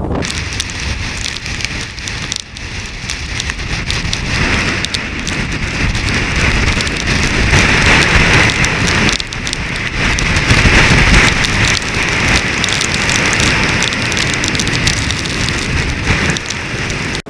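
Wind-driven snow pelting in a blizzard, a dense crackling hiss with wind rumbling on the microphone. It swells in gusts after a few seconds and is loudest around the middle.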